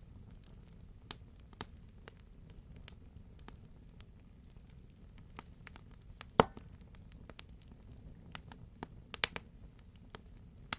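Wood campfire crackling, with sparse sharp pops over a steady low rumble of the burning fire; the loudest pop comes a little past the middle, and a quick cluster of pops follows near the end.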